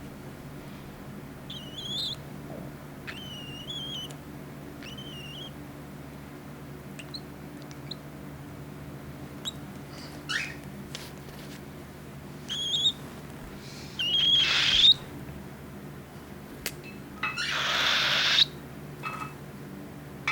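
Cockatiel chick calling: a few short, gliding chirps, then louder raspy cries about two thirds in, the longest lasting about a second near the end.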